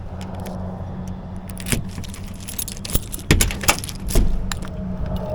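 A steady low hum with a run of irregular sharp clicks and clatters over it. The loudest knocks come about three to four seconds in.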